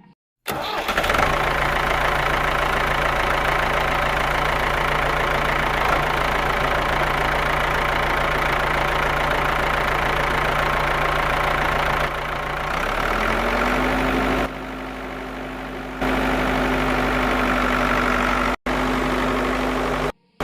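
Small motor of a DIY mini tractor running steadily, its hum stepping up in pitch about two-thirds of the way in, with abrupt cuts between clips.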